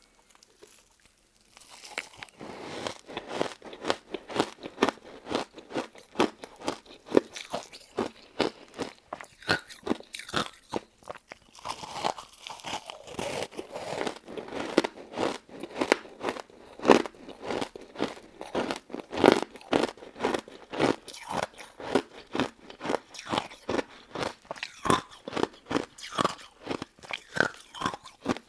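A person biting and chewing crunchy crystal ice dessert, crisp crunches coming several times a second. The chewing starts about a second and a half in, after a brief quiet moment.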